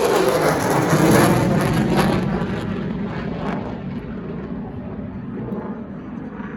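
Military jet engine noise from a fighter jet passing overhead and flying away. The sound fades steadily, losing its hiss after about two seconds and leaving a dull, distant rumble.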